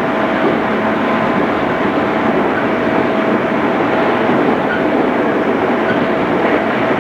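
Inside a JR East 211 series electric train running at speed: steady rolling noise from the wheels and rails, with a faint even whine held throughout.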